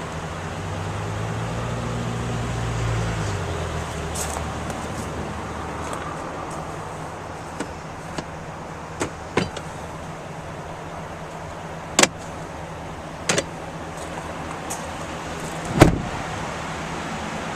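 A motor vehicle running, with a low engine sound that swells and then dies back in the first few seconds over a steady low hum. Several sharp clicks and knocks come later, the loudest about twelve and sixteen seconds in.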